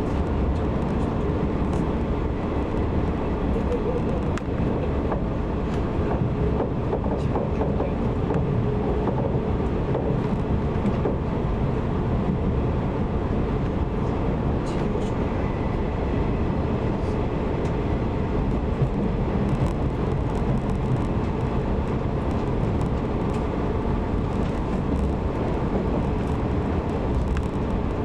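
JR 185 series electric train running, heard from inside the carriage: a steady rumble of wheels on rail with occasional clicks.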